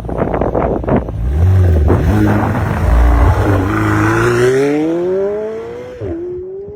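McLaren 720S twin-turbo V8 accelerating hard. A loud low rumble gives way to an engine note that climbs steadily in pitch, drops sharply at an upshift about six seconds in, then starts climbing again.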